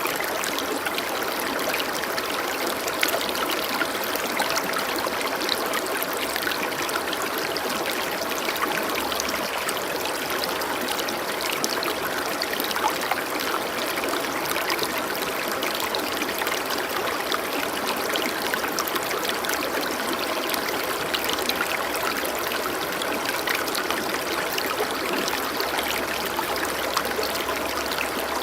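Running water, a steady flowing and trickling rush with many small splashes and drips scattered through it.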